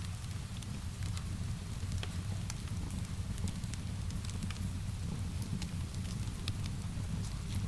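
Fireplace fire crackling, with scattered sharp snaps and pops over a steady low rumble. Rain is mixed in underneath.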